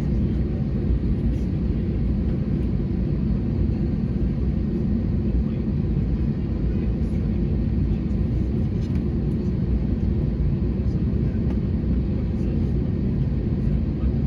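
Steady low rumble of an Airbus A321neo airliner heard from inside the cabin, with faint small clicks over it.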